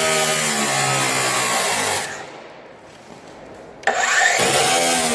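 Angle grinder cutting into a steel safe: a loud motor whine with grinding noise that drops in pitch as the disc bites. About two seconds in it stops and winds down. Near the end it spins back up and cuts again.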